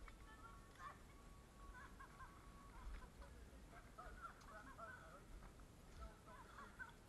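Faint birds calling in woodland: many short, curving chirps, thickest in the second half, over a low rumble.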